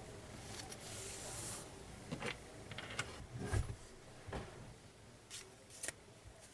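Scattered light taps, clicks and soft rustles of stationery and paper being handled on a desk, with one duller thump a little past the middle.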